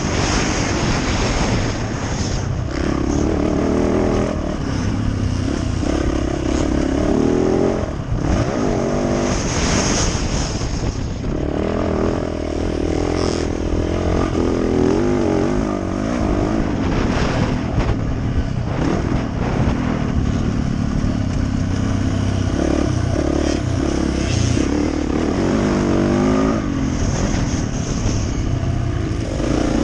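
Yamaha YZ450F four-stroke single-cylinder dirt bike engine revving hard and easing off again and again, its pitch rising and falling as it is ridden around a motocross track.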